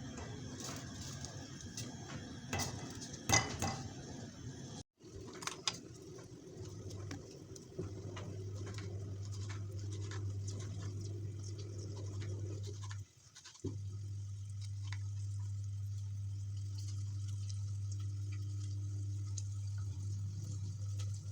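Dishes and cutlery clinking for the first few seconds, then a steady low electric hum from a running kitchen appliance.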